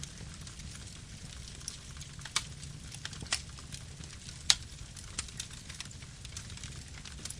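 Campfire burning: a steady low rumble of the flames with sharp, irregular wood crackles and pops, the loudest pop about four and a half seconds in.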